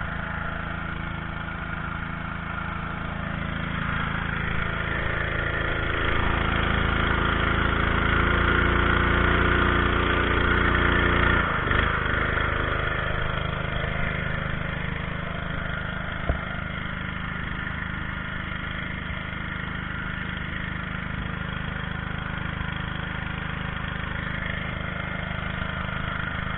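Engine running steadily, revved up for several seconds in the middle before it drops back to a steady run, with a single sharp click about sixteen seconds in.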